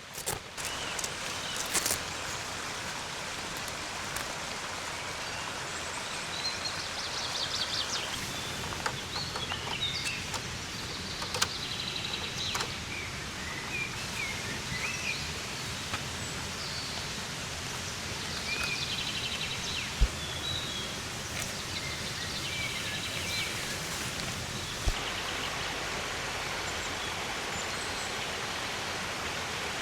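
Steady hiss of rushing water, with small birds chirping and trilling now and then above it. A few sharp clicks stand out, the clearest about two-thirds of the way in and again a few seconds later.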